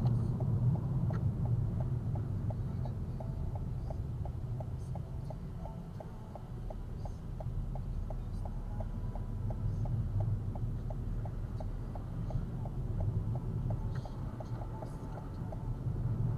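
A car's turn-signal indicator ticking at an even rate, about two to three ticks a second, over the low rumble of the engine and road inside the cabin. The ticking stops shortly before the end.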